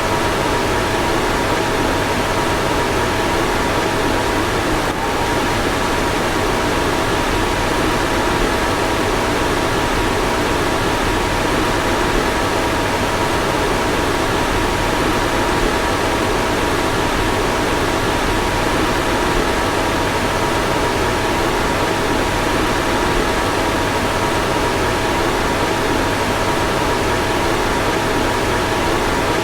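A car's fan running steadily: an even rush of blown air with a faint, steady whine of a few tones.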